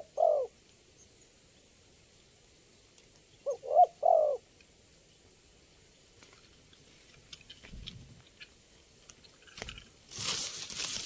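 Spotted dove cooing: a short phrase of three coo notes, twice, about four seconds apart. Near the end, a louder rustling noise.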